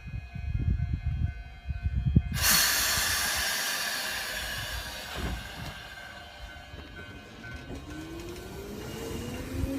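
Nagano Electric Railway train at a station platform: a sudden loud burst of compressed air hissing out about two seconds in, fading over several seconds, then a rising whine from the traction motors as the train starts to pull away.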